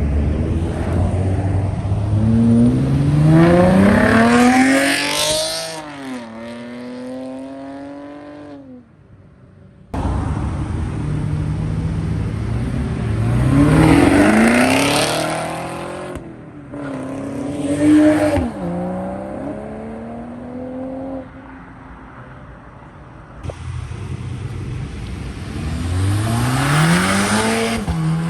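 Modified muscle cars accelerating hard away one after another. Each engine's pitch climbs steeply, drops at a gear change and climbs again. The sound cuts off abruptly between passes, about four in all.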